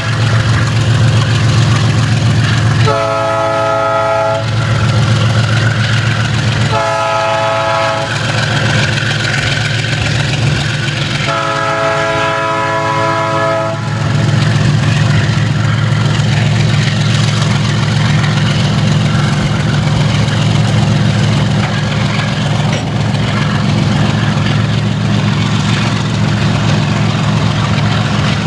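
Air horn of a Rumo diesel locomotive hauling a container train, sounding three blasts; the third, about two and a half seconds long, is the longest. Then the loaded container flatcars roll past with a steady low rumble of wheels on rail.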